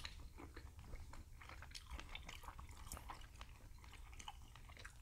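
Faint, close-miked chewing of grilled squid, with scattered small mouth clicks.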